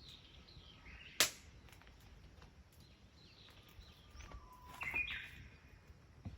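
Wood fire crackling: one sharp pop about a second in and a few faint ticks, with faint bird chirps around it.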